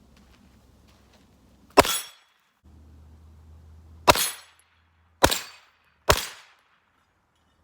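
Four shots from a Ruger PC9 9mm carbine, each followed by the brief ringing ping of a struck AR500 steel target. The first two are about two seconds apart, and the last two come less than a second apart.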